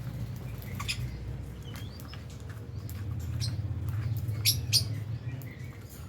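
Lovebirds chirping in an aviary: scattered short, sharp chirps, the two loudest close together about four and a half seconds in, over a steady low hum.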